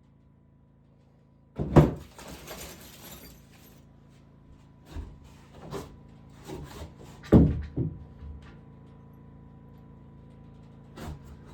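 Scattered knocks and bumps from handling wood and tools during carpentry work, with a short scrape just after the first loud knock; the loudest knocks come about two seconds and seven seconds in.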